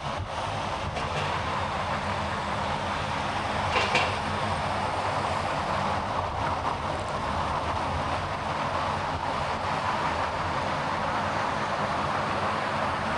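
Car driving along, a steady mix of road and engine noise, with one brief sharp sound about four seconds in.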